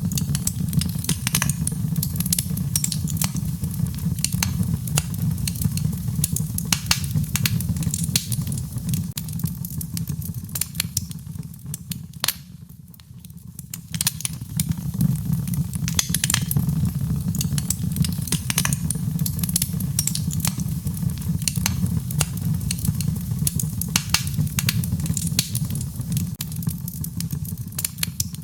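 Wood fire in a fireplace crackling, with irregular sharp pops and snaps over a low steady rumble. The sound dips briefly about halfway through.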